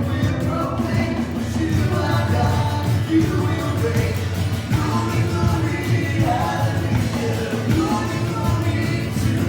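Worship band music with singing: a song over a steady bass, with a sung melody line.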